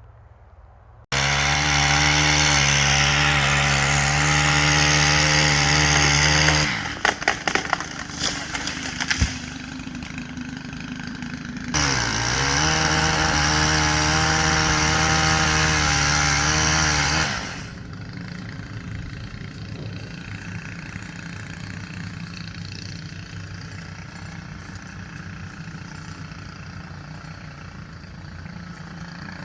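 Gas chainsaw cutting into a large tree at full throttle, starting suddenly about a second in. About six seconds in it drops off, and a run of sharp cracks and knocks follows. About twelve seconds in it goes back to full throttle with a brief dip in pitch as it bogs in the cut, then about seventeen seconds in it falls to a lower, steady running.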